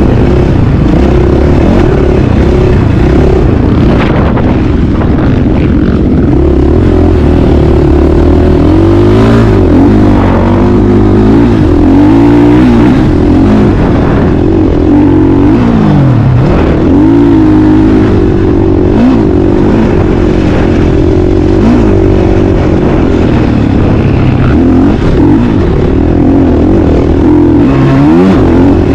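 Motocross bike engine running hard, its pitch rising and falling over and over as the throttle opens and closes. The sound is loud throughout.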